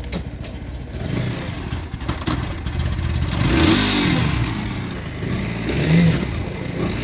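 Bajaj Pulsar NS motorcycle engine running, revved up and back down once in the middle and briefly again near the end, with a rattle from the chain cover, which the owner puts down to dirt, sand and chain lube packed inside the cover.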